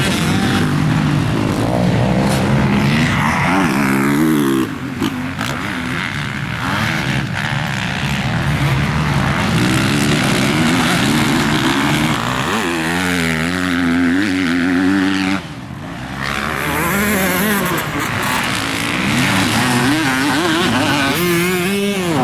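Motocross bike engine running hard, its pitch rising and falling continuously as it accelerates and backs off, with the throttle briefly shut about five seconds in and again about fifteen seconds in.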